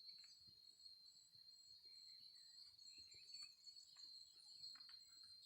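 Faint, steady high-pitched trill of crickets, with a few faint chirps and ticks over it.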